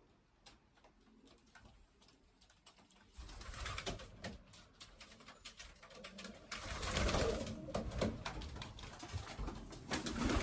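Pigeons cooing in a loft, over scattered clicks; about three seconds in, louder rustling and knocking sets in and continues.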